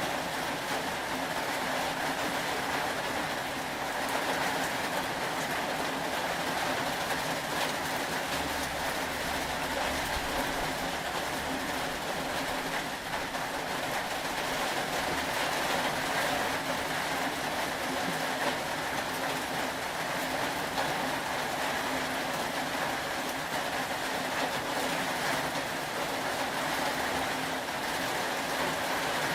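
Steady rain falling, an even hiss at a constant level without breaks.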